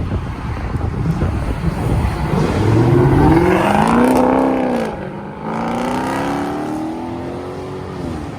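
Muscle car engine accelerating hard. Its pitch climbs, drops away about five seconds in at a gear change, then climbs again more slowly before easing off near the end.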